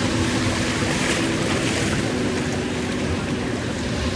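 Ocean surf washing up on the shore, with wind rumbling on the microphone; a wave hisses in about a second in.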